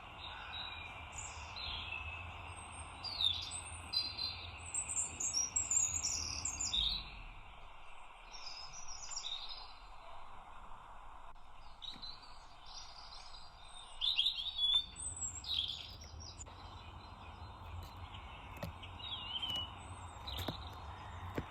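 Garden songbirds chirping and singing in clusters of quick, high notes and trills, busiest a few seconds in and again past the middle, over a steady background rush of outdoor noise.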